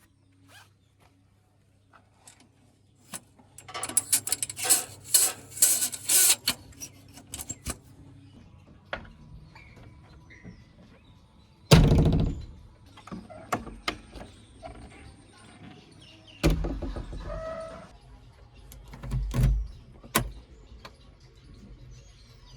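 Door and latch clatter with scattered rattles and knocks, and one heavy thunk about twelve seconds in, like a door being shut.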